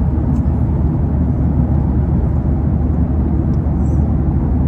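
Steady low drone inside the cabin of a passenger airplane in flight: engine and airflow noise.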